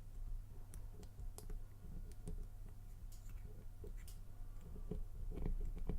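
Faint, irregular small metallic clicks of a lock pick probing the pin stacks of an Abus 83/60 padlock's Trioving SEC core under tension.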